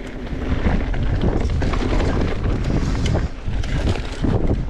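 Wind rushing over the microphone of a mountain biker riding fast down a dirt trail, under a steady low rumble from the tyres, with scattered knocks and rattles from the bike over bumps.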